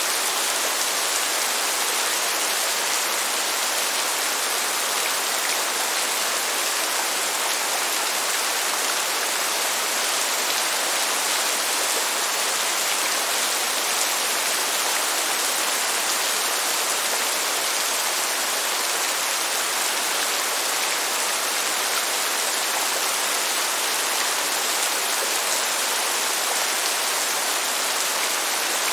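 Steady, heavy rain: an even hiss that does not change, with no thunder.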